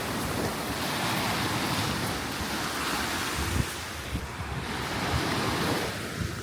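Sea surf washing onto the shore, swelling and easing, with wind rumbling on the microphone.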